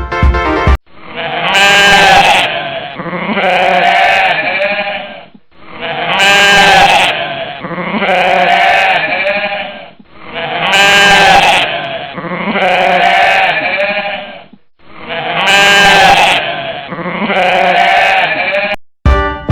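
Goat bleating: a pair of quavering bleats, the same recording looped four times in a row with abrupt cuts between the repeats.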